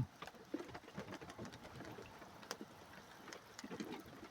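Quiet background with faint, irregular clicks and ticks and no thunder.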